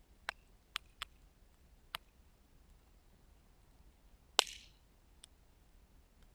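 Wood fire crackling: scattered sharp snaps from the burning logs, with one louder pop and a brief hiss about four and a half seconds in.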